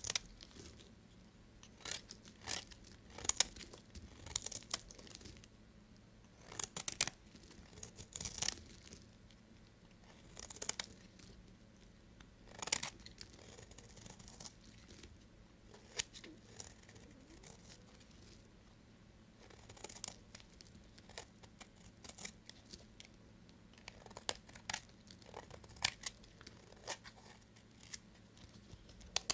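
A knife cutting through bars of dry soap: irregular crisp, crunchy strokes every second or two, with quieter gaps between.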